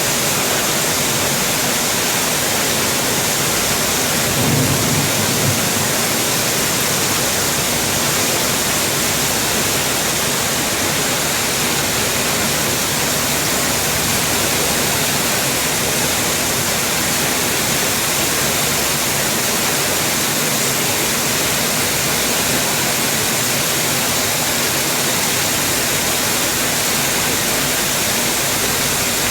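Heavy rain falling steadily, an even loud hiss. A brief low rumble comes about five seconds in.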